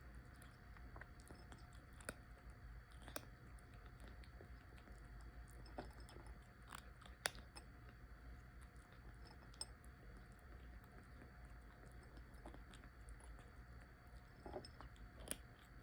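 A stray kitten chewing its food, heard as faint, irregular crunching clicks over a low steady hum.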